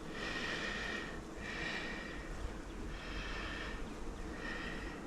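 A person breathing audibly through the nose, close to the microphone: about four rhythmic, hissy breaths, each with a faint whistle.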